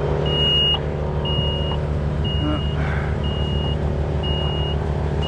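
An aerial lift's engine running steadily while a warning beeper sounds in even half-second beeps about once a second, apparently because the boom is stretched too far out.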